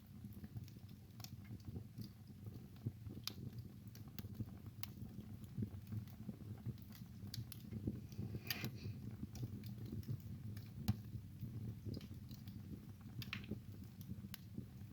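Wood fire crackling in a fireplace: irregular sharp pops and snaps over a low, steady rumble of the burning, with one louder snap about two-thirds of the way through.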